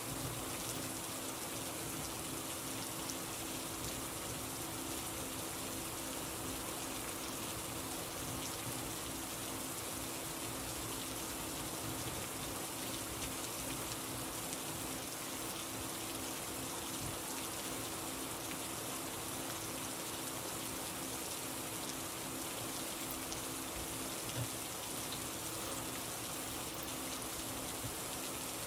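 Steady rain falling and pattering on surfaces, even and unbroken, with a faint steady hum underneath.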